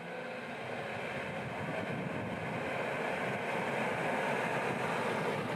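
A Moskvich 411's four-cylinder engine running as the car drives toward the listener, its sound growing steadily louder as it approaches.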